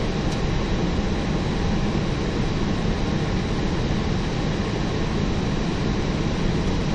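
Steady cabin noise in an Airbus A321 cockpit: engine and airflow noise heard as an even, unbroken rush, heaviest in the low range, with a faint steady high tone.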